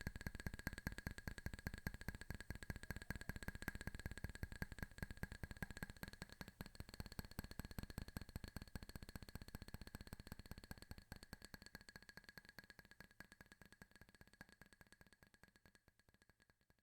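Fast fingernail tapping, many quick clicks a second, growing gradually softer and dying away near the end, with a faint steady tone underneath.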